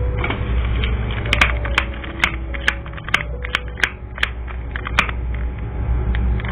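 A series of about a dozen sharp, irregularly spaced clicks and taps over a steady low hum.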